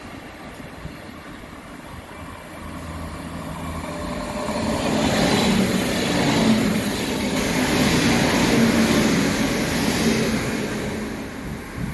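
Regional train passing close by on the next track: the rolling rumble and rush of its wheels and running gear build over a few seconds, stay loud for about five seconds, then fade as the last car goes by.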